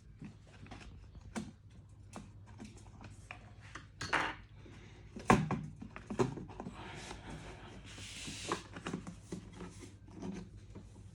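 Clicks, knocks and rubbing of small parts and tools being handled while an electric kettle is repaired, with one sharp knock about five seconds in and a scraping noise from about seven to nine seconds.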